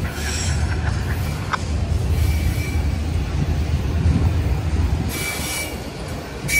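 Long autorack freight train rolling slowly past, a steady low rumble of wheels on rail, with brief high wheel squeals about two seconds in and again near the end.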